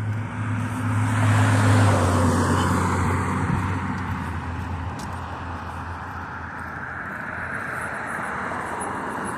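A motor vehicle passing close by on the street: its engine hum swells to a peak about two seconds in and fades, leaving a steady hiss of tyres and traffic.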